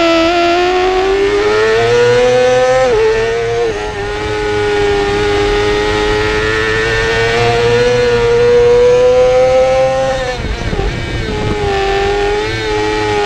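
Yamaha YZF-R6's inline-four engine at high revs under racing load, its pitch climbing steadily through a long corner with a brief step about three seconds in. About ten seconds in the revs fall sharply and unevenly for around a second, as when shifting down under braking, then run steady again at a lower pitch.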